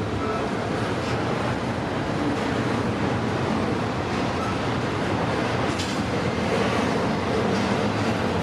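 Freight train rolling past slowly, a steady rumble of its cars and wheels on the rails, growing slightly louder near the end.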